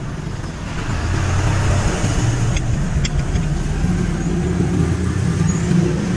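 Motor vehicle engine running close by: a steady low rumble with road noise, growing louder about a second in.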